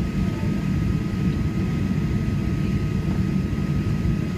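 Steady cabin rumble of a Boeing 737-800 with its CFM56-7B engines idling while it waits in the takeoff queue, with a faint steady high whine over it.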